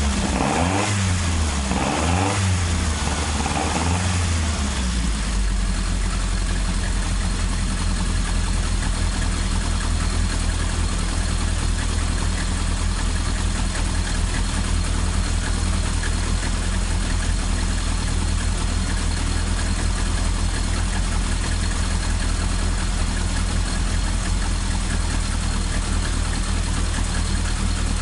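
Carbureted Toyota 4A-G twin-cam 16-valve four-cylinder engine running. It is blipped about three times in the first few seconds, then settles into a steady idle.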